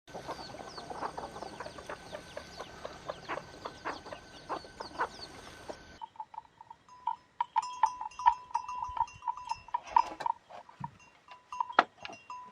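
Farm animals calling. For the first six seconds there are many short, overlapping calls over a steady background noise; then the sound changes abruptly to a run of short notes at one pitch with scattered clicks.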